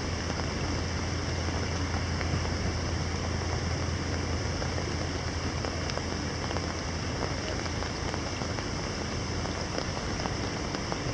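Steady rain falling on canal water, a continuous patter of drops on the surface, over a steady low rumble of distant city traffic.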